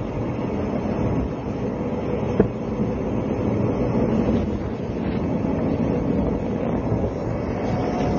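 Steady rumble of a 20-series sleeper coach running on the rails, heard from inside the carriage, with one sharp knock about two and a half seconds in.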